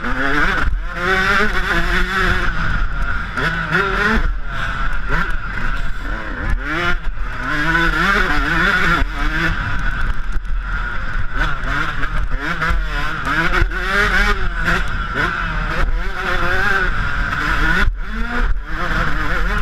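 Yamaha YZ125 single-cylinder two-stroke engine revving hard and shifting, its pitch climbing and falling again and again as the motocross bike is ridden around the track, with occasional short knocks.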